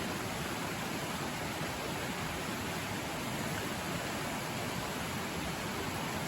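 River water rushing loudly and steadily, an even rush with no breaks.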